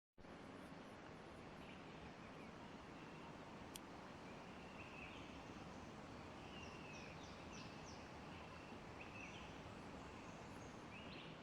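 Faint outdoor ambience: a steady low hiss with small birds chirping now and then in the background, the chirps coming more often in the second half.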